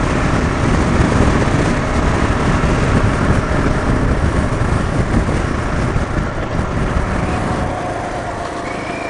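Motorcycle under way at speed: steady wind rush over the microphone mixed with engine and road noise, easing slightly near the end.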